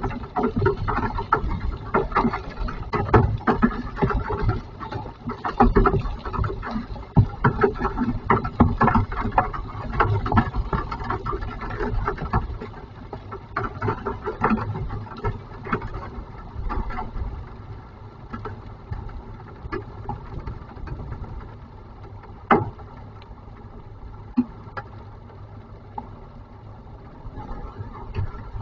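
Hailstones and rain pelting a hard surface in a dense patter of sharp hits that thins out to scattered strikes after about the halfway point, with one sharp, loud hit about two-thirds of the way through: the hail storm easing off.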